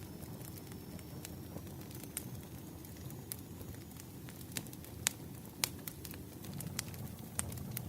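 Wood fire crackling: a steady low rumble with scattered sharp pops, the two loudest a little past halfway.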